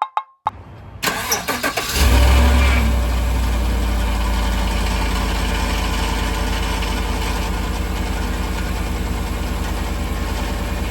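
Truck engine remote-started cold: it cranks briefly, catches about two seconds in with a jump in level, then settles into a steady idle.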